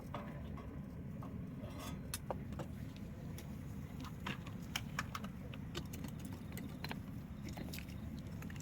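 Wood fire burning, crackling and popping with irregular sharp snaps over a steady low rumble of the flames.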